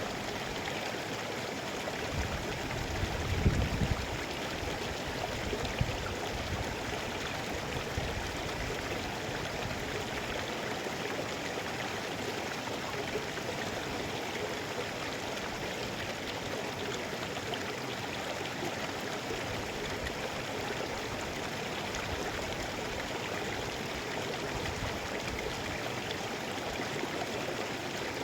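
Mountain river rushing steadily over rocks, with a brief low rumble about three seconds in.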